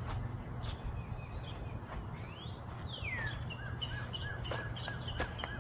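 A songbird singing in the open air: a long sweeping whistle, then a run of short repeated down-slurred notes, about three a second, over a steady low rumble.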